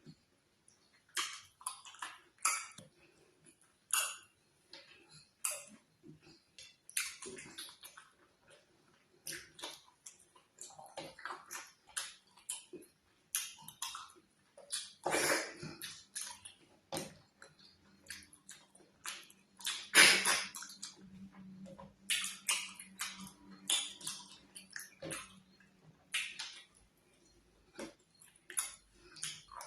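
Close-miked wet eating sounds of ogbono soup and oatmeal fufu: sticky, slimy chewing and slurping in short irregular bursts.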